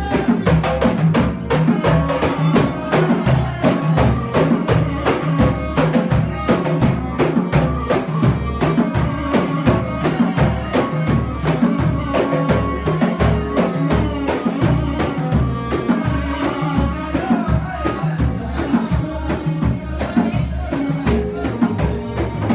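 Samri folk music: hand drums beaten in a steady, driving rhythm under sustained sung or played melody lines.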